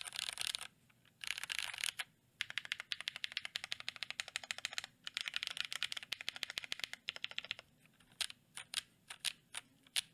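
Typing on a GMMK Pro mechanical keyboard with lubed Glorious Panda tactile switches on a polycarbonate plate, clacky with a little bit of scratch: runs of rapid keystrokes, thinning to separate key presses near the end.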